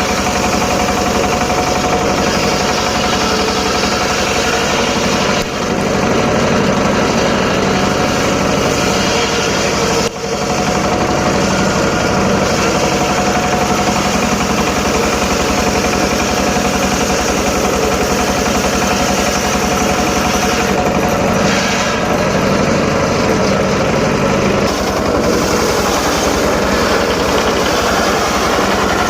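Homemade circular saw rig running steadily while ripping teak lumber, with a constant high tone over the dense, even pulsing of its drive. The sound drops briefly about five seconds in and again about ten seconds in.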